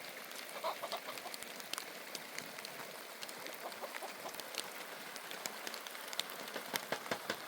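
Steady rain falling, with many sharp ticks of individual drops striking close by.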